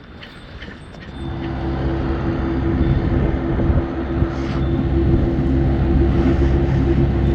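An engine running steadily at a constant speed, coming in about a second in.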